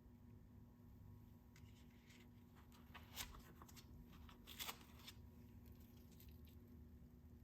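Near silence with faint handling noises: soft rustling and a few light clicks, the two loudest about three seconds and four and a half seconds in.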